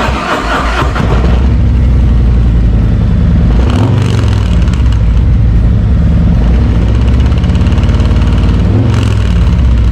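Harley-Davidson V-twin running through Khrome Werks 4.5-inch slip-on mufflers, loud and deep. The revs change about a second in, again around four seconds and near the end.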